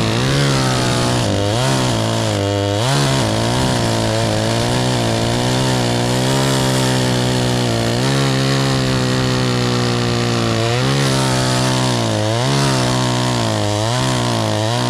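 Gas chainsaw running at high revs while cutting oak wood, its pitch dipping briefly and recovering several times as the chain loads up in the cut.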